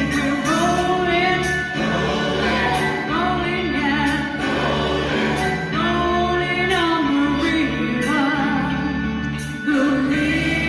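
A choir singing a 1970s pop song live, held notes with vibrato over a steady instrumental backing with regular percussive ticks.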